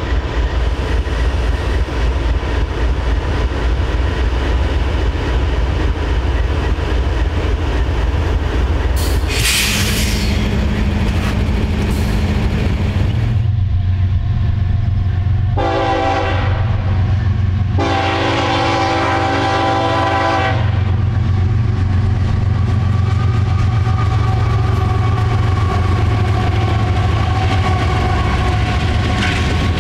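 Freight cars rumbling and clacking past on the rails. Then a CSX diesel freight locomotive approaches, sounding its horn in two long blasts about halfway through, its engine running louder as it nears and passes. Another horn blast begins at the very end.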